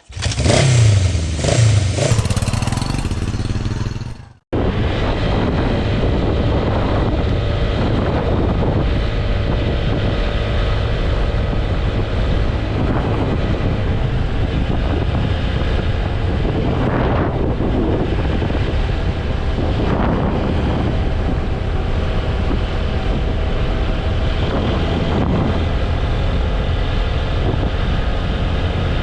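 TVS Apache RTR 160 4V motorcycle engine revving up and down a few times. After a sudden cut comes a steady highway ride: the engine running under wind buffeting the microphone and road rumble.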